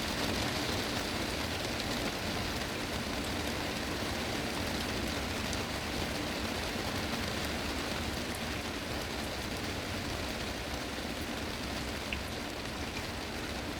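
Heavy rain drumming steadily on a greenhouse's glass roof, a dense even patter with the odd sharper drop tick.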